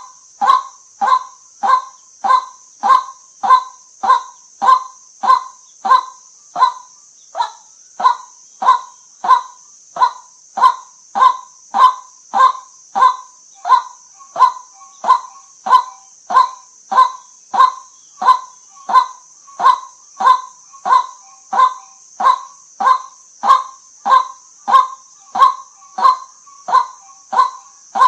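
White-breasted waterhen giving its monotonous, repeated 'kwak' call, about three short notes every two seconds without a break, over a steady high hiss.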